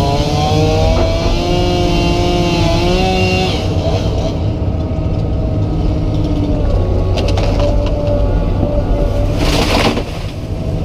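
Komatsu PC200 excavator's diesel engine running steadily. In the first few seconds a pitched whine rises and holds for about three seconds, then drops away. About a second before the end there is a brief rushing burst.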